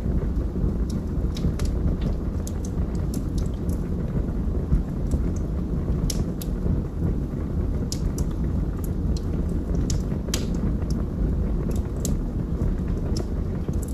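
Log fire burning in a fireplace: a steady low noise of the flames with irregular sharp crackles and pops from the burning logs, a few a second.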